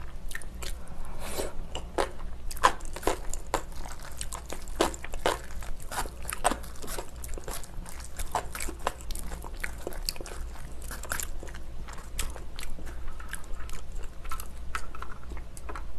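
A person chewing and biting a mouthful of spicy sauced noodles, with many quick, irregular wet clicks and crunches. A low steady hum sits underneath.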